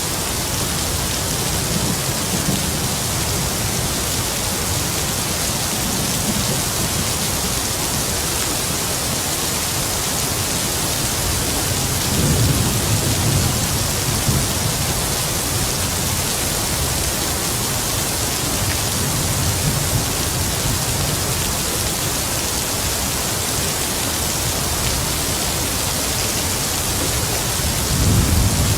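Heavy rain falling steadily as a dense hiss, with distant thunder rumbling low several times, loudest about twelve seconds in and again near the end.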